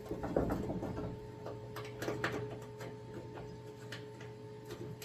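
Scattered light clicks and knocks of metal hood parts and hinges being handled and shifted, over a steady hum.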